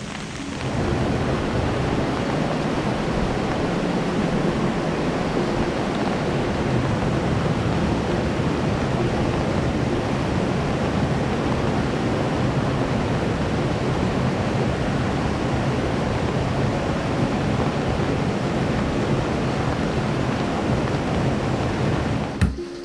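Heavy rain pouring down: a dense, steady hiss that swells in about a second in and cuts off suddenly near the end, where a sharp knock comes in.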